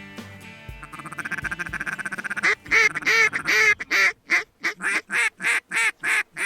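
Duck call blown in mallard-hen style: a fast raspy chatter, then a string of loud, evenly spaced quacks, about three a second.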